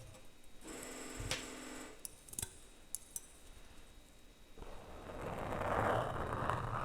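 Plastic utensils handled against a microphone: a squeaky, pitched scrape for about a second, a few light clicks, then a louder rough scraping from about two-thirds of the way in.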